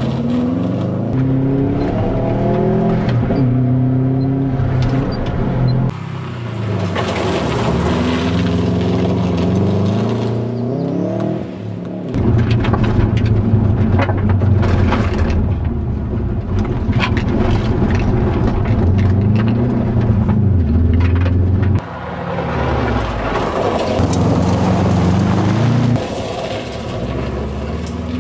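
Subaru WRX's turbocharged flat-four engine revving hard and climbing through the gears, pitch rising and dropping at each shift. The tyres slide and spray gravel on a dirt road. The sound comes in turns from beside the track and from inside the cabin.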